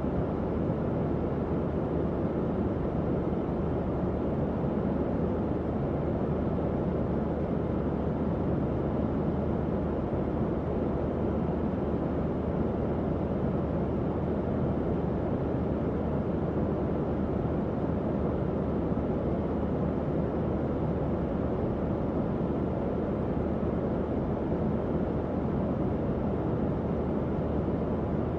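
Tower fan running: a steady, even rush of air, fullest in the low and middle range, with a faint low hum underneath.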